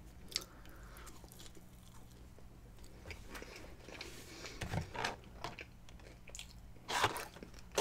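Close-miked chewing and crunching of fried food, mostly quiet, with scattered short crunches and the most prominent one about seven seconds in, over a faint steady low hum.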